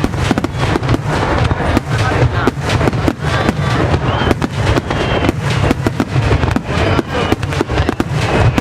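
Aerial fireworks bursting in a dense barrage: rapid, overlapping bangs and crackles several a second over a continuous low rumble.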